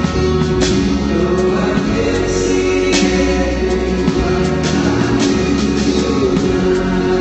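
Live rock band playing a song through an arena PA, with singing, bass and drums, heard through a phone's low-quality stream.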